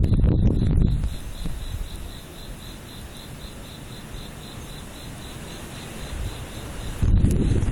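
Typhoon wind gusts buffeting the microphone in the first second and again near the end. In the lull between, an insect chirps steadily in a high, even pulse about three times a second.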